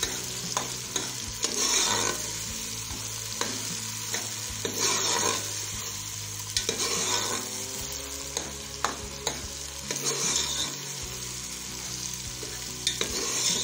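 Onions, tomatoes and ginger-garlic paste frying in oil in an aluminium pot, sizzling steadily, while a metal spoon stirs and scrapes through them in slow strokes, with a few light clinks against the pot. This is the masala being sautéed until the tomatoes soften.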